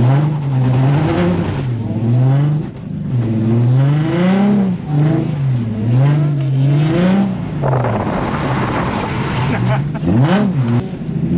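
Infiniti G35 coupe's V6 revved up and down over and over while the car is drifted on a wet track, the rear tyres breaking loose with very little throttle. There is a rushing noise for a couple of seconds past the middle, and a quick sharp rev near the end.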